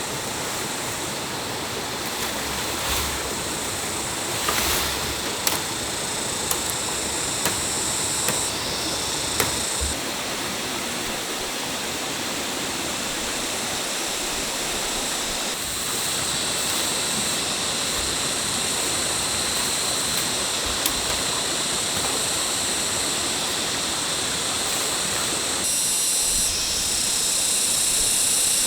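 Stream water rushing steadily, with a few light knocks and clicks over it.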